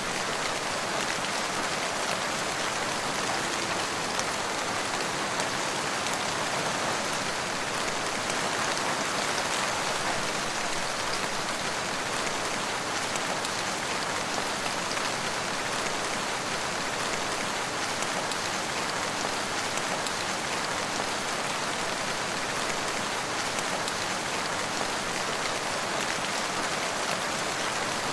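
Steady rain falling, an even hiss of many drops hitting surfaces with fine ticks of individual drops throughout.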